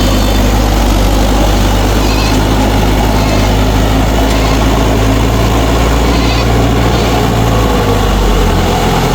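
Mahindra 4WD tractor's direct-injection diesel engine running steadily and loudly close by; its low note changes slightly near the end.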